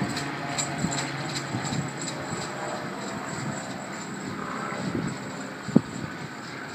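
Sydney Trains Waratah A-set electric train pulling away from the platform, its motor hum and running noise slowly fading as it leaves. There are light, evenly spaced clicks in the first couple of seconds and a single sharp click near the end.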